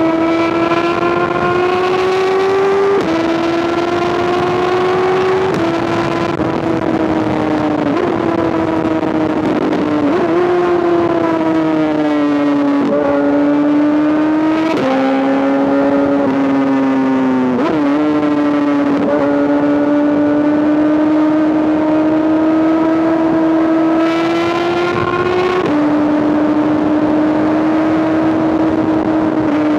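2005 Honda CBR1000RR's inline-four engine through an SC-Project exhaust, revving high while riding. Its pitch climbs steadily, then jumps sharply at each gear change, about ten times.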